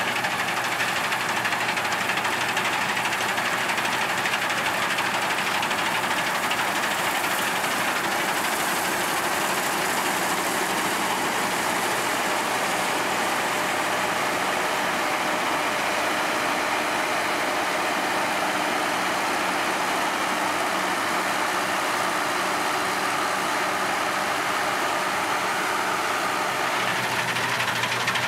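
Harvest machinery running steadily: a diesel engine under constant load with a broad mechanical whir over it.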